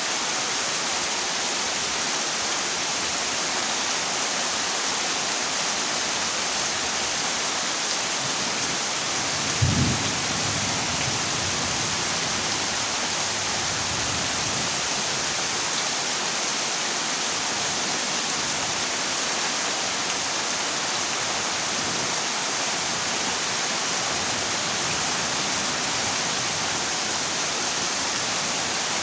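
Heavy rain falling steadily on a zinc sheet roof, with one brief low clap of thunder about ten seconds in.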